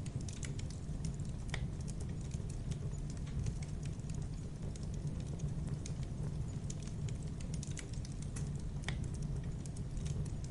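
Wood fire burning with a steady low rumble and frequent small irregular crackles and pops, a few sharper pops standing out.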